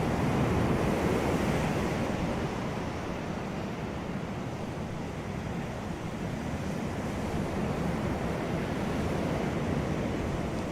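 Sea waves breaking and washing on a beach, a continuous surf rush that swells right at the start and again near the end.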